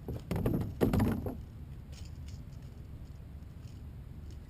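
A quick cluster of knocks and rattles in the first second and a half, then a low steady rumble.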